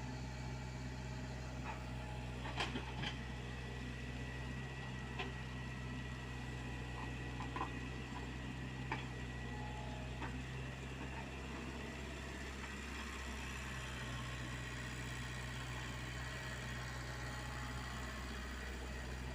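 Komatsu PC75UU mini excavator's diesel engine running steadily, with scattered short clicks and knocks as the machine works.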